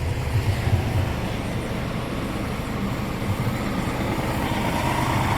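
Diesel engine of a Scania R410 tractor unit running with a steady low rumble, growing slightly louder near the end.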